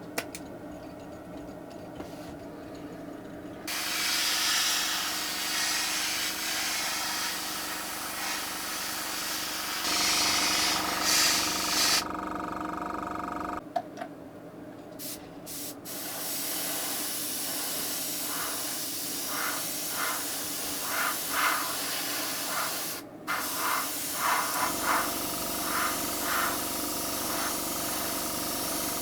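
A steady hissing spray that starts about four seconds in, breaks off briefly in the middle, then comes back with short bursts in its second half.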